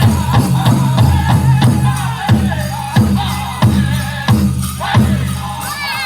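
Powwow drum group singing a chicken dance song: the big drum is struck in a steady beat by several drummers under high wavering men's voices.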